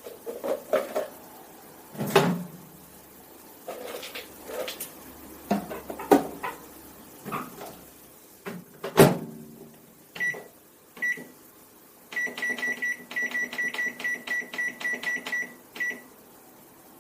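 Knocks and clicks of the Samsung MS23K3513AK microwave being loaded, with a loud clunk about nine seconds in, then the oven's control panel beeping: two single beeps, then a quick run of about four beeps a second for several seconds as the cooking time is set.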